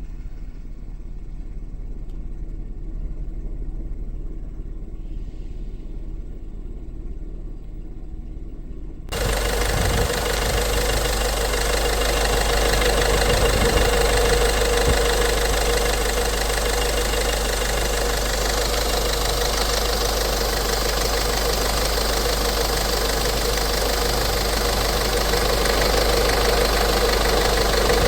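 Peugeot 1.6 BlueHDi diesel engine idling steadily with fresh timing belt, water pump and drive belt fitted. About nine seconds in, the sound jumps to a louder, closer recording of the same steady running.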